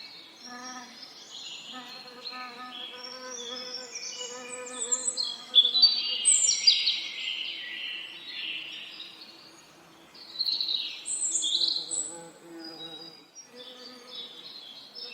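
Songbirds singing in a busy chorus of chirps and trills, loudest in two spells about six and eleven seconds in, over the low hum of bees buzzing that fades and returns.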